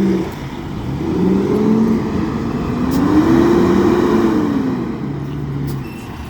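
Car engine revving up over a couple of seconds, then easing back down, over a steady wash of tyre and road noise.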